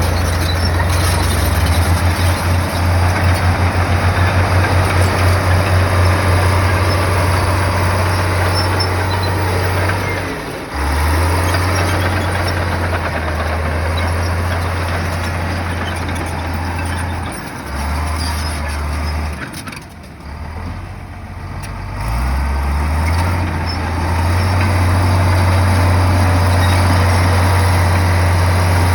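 Komatsu bulldozer's diesel engine working under load, a deep throbbing engine note over a clatter of machine noise. The note eases off briefly about a third of the way in and again for a few seconds about two-thirds in, then picks back up and holds steady.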